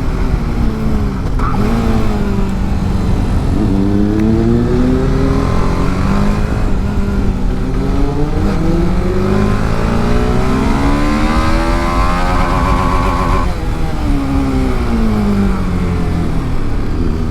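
TVS Apache RR310 motorcycle engine at full throttle on track. Its pitch climbs and drops repeatedly through the gears, holds high briefly about two-thirds of the way in, then falls.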